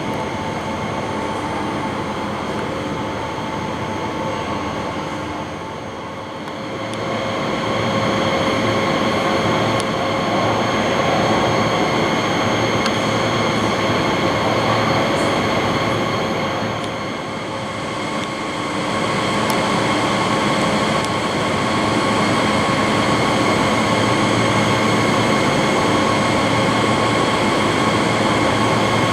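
Electric train running: a steady rumble with a constant hum of several fixed tones, growing louder about seven seconds in and again later.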